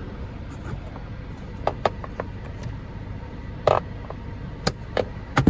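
Sharp plastic clicks and a clunk from a car's overhead sunglass holder being handled: a quick run of clicks about two seconds in, a louder click in the middle, and a few more near the end. A low steady hum from the idling car runs under them.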